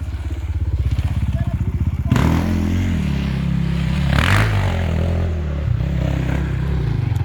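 Enduro motorcycle engine ticking over, then opened up about two seconds in and running harder under throttle, with a brief swell of hissing noise around four seconds; it drops back to a steady idle near the end.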